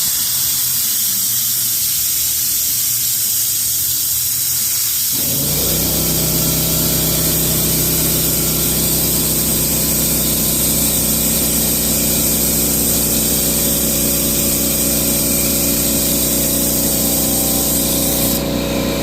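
Air-powered brake vacuum bleeder hissing steadily as it draws brake fluid through the dirt bike's rear brake line. About five seconds in, a steady low machine hum joins the hiss.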